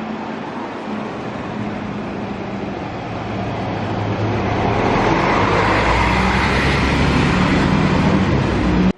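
City bus engines running with tyre and road noise as a bus approaches and passes close by, growing louder from about three seconds in and loudest near the end. The sound cuts off suddenly at the end.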